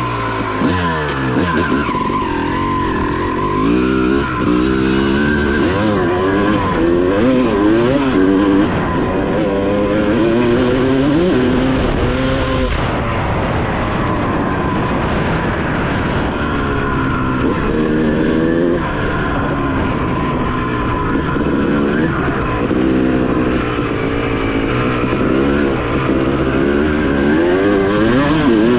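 Suzuki dirt bike engine revving up and down over and over as the bike rides along the trail, its pitch rising and dropping with throttle and gear changes.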